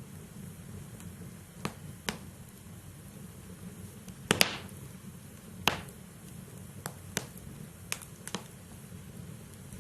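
Wood fire burning in a fireplace: a steady low rumble with sharp crackles and pops from the logs every second or so, the loudest pair about four and a half seconds in.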